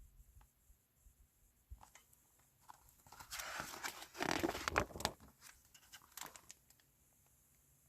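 Paper rustling and crinkling for about two seconds, the sound of a book's page being handled and turned, with a few small clicks around it.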